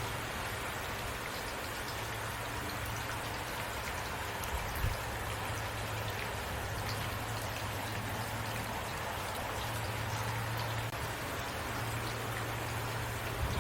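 Heavy rain falling steadily, a dense even hiss of drops, with a low rumble underneath and a brief low thump about five seconds in.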